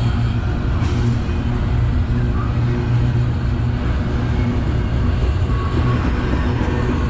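Freight train running past with a steady low rumble.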